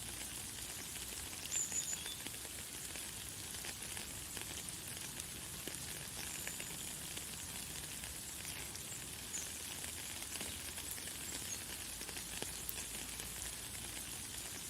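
Steady light, fine rain with many small drops pattering. A few brief high bird chirps come through, the loudest about two seconds in.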